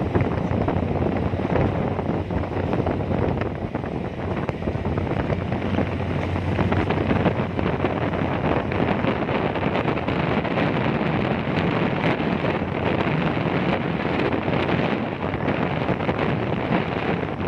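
Strong wind buffeting the microphone on the deck of a lake ferry, a steady rushing with a low engine hum beneath.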